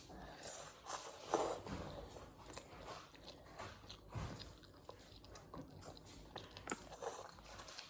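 Quiet close-up eating sounds: chewing and mouth noises with scattered small crunches and clicks.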